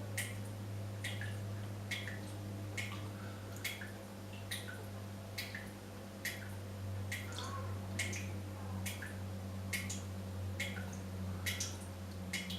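Tap dripping steadily, single drops falling at an even pace of a little more than one a second, over a steady low hum.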